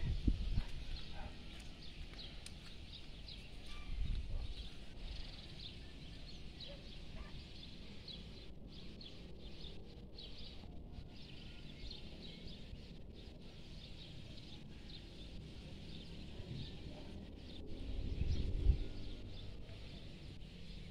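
Faint outdoor ambience of birds chirping steadily, with a few low rumbles, the loudest near the end.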